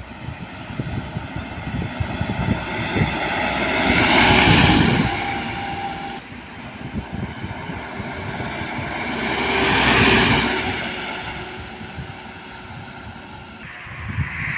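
Large trucks passing close by on a road, two pass-bys one after another, each swelling to a peak and fading, with wind buffeting the microphone.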